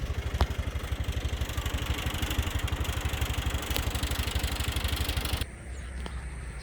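Small vehicle engine running with a fast, even low throb under a rushing noise; about five and a half seconds in, the rushing noise cuts off abruptly, leaving a quieter steady low hum.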